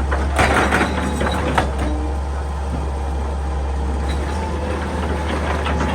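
Excavator's diesel engine running with a steady low drone. In the first second or two there is a burst of scraping and clattering, the bucket working against rock and earth.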